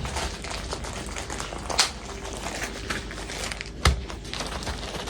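Light rustling and handling noises, with two sharp knocks about two seconds apart, the second louder.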